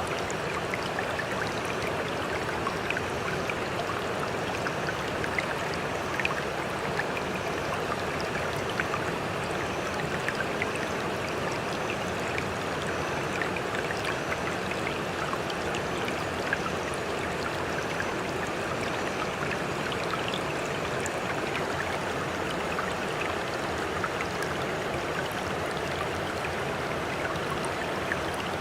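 Sea water rushing steadily with many small trickling splashes and crackles. The level stays even throughout, with no separate waves building and breaking.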